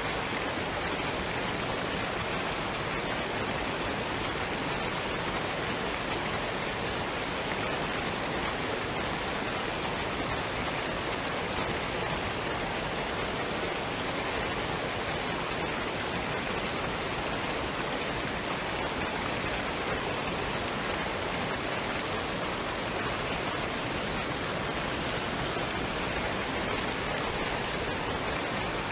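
Waterfall and stream water rushing in a steady, even hiss without a break.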